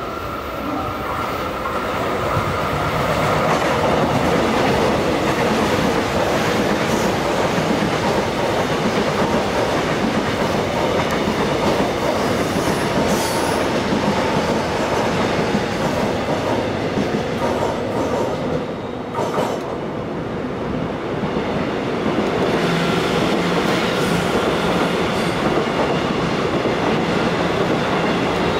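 Seoul Subway Line 1 Korail electric commuter train running past on the near track, its noise rising over the first few seconds and holding steady until it dips about 19 seconds in. From about 22 seconds in, a KTX high-speed train approaching on the other tracks builds the noise up again, adding a steady tone.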